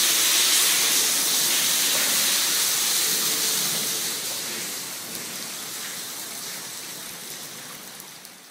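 Steady hiss of heavy rain and pouring water. It fades out gradually over the last few seconds.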